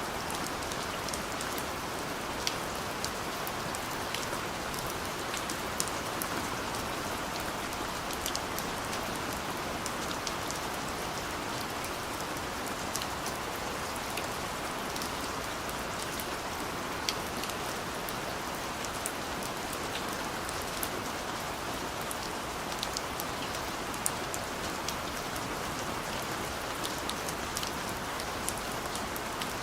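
Steady rain falling, an even hiss with scattered sharp drops hitting a surface.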